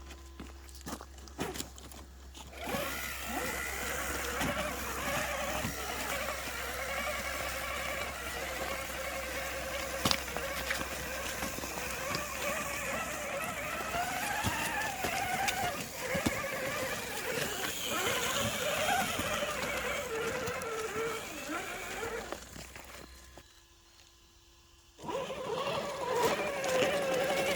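Electric motor and gear drive of an RC rock crawler whining, the pitch rising and falling with the throttle. It stops briefly a few seconds before the end, then starts again.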